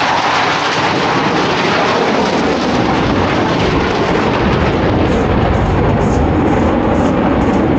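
Jet noise from Blue Angels F/A-18 Super Hornets flying past: a loud, rushing noise whose deep rumble builds from about two and a half seconds in.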